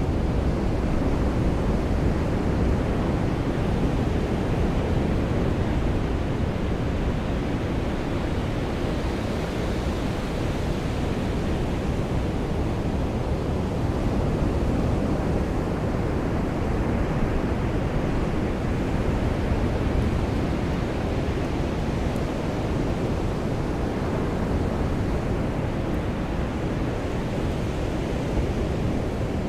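Rain falling with ocean surf washing on a beach: a steady, even noise that swells and eases gently.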